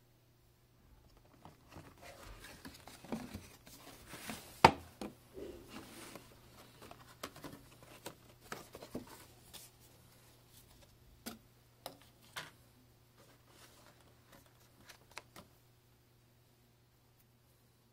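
Hands handling packaging and a small device: scattered clicks, taps and rustles, with one sharp click about four and a half seconds in.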